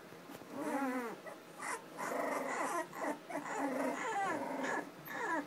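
Three-week-old American Bully puppies whimpering and whining, a run of high, arching calls one after another, some overlapping.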